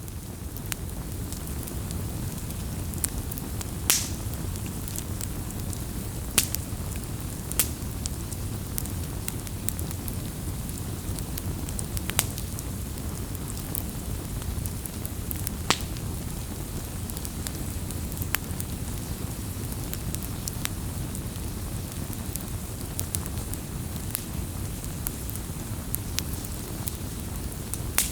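Campfire burning: a steady low rush of flames with irregular sharp crackles and pops of burning wood, a few of them louder.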